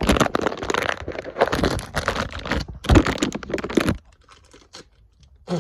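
Close handling noise: rapid rustling, crinkling and clicking for about four seconds, then quiet with a single knock near the end.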